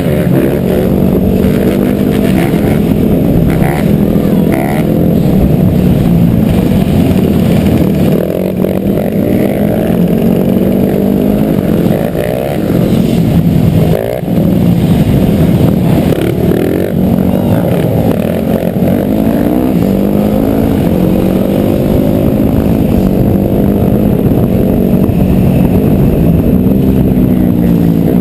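Several dirt bike engines running and revving together, their pitches rising and falling and crossing as the bikes speed up, slow down and pass.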